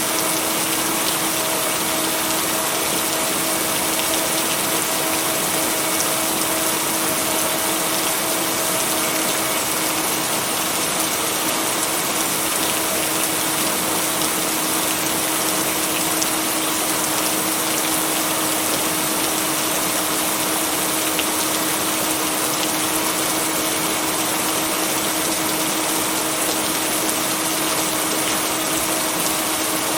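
Steady rain noise with a constant low humming tone running under it, and no thunder or other sudden sounds.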